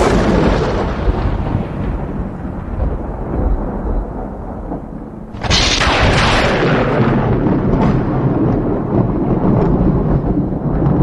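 Strong wind buffeting the microphone: a loud, rumbling gusty rush, with a fresh hard gust about five and a half seconds in.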